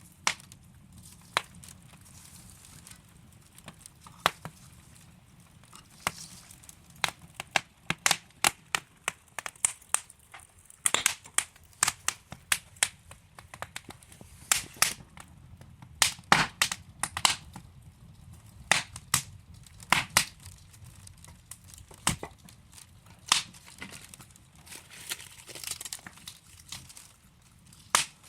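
Wood fire in a fireplace, logs burning with irregular sharp crackles and pops over a faint low rumble of flame.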